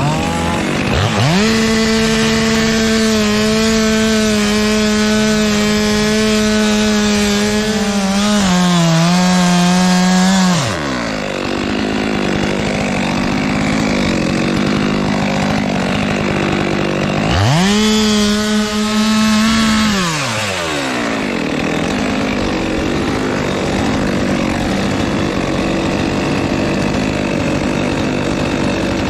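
Two-stroke chainsaw being run at full throttle in bursts while cutting wood. The engine revs up about a second in, sags briefly under load, and drops back to idle; a shorter second burst comes in the middle and it revs up again at the end.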